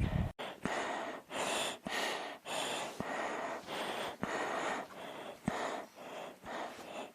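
A person breathing hard in quick, even gasps, about two breaths a second. Faint ticks fall between some of the breaths.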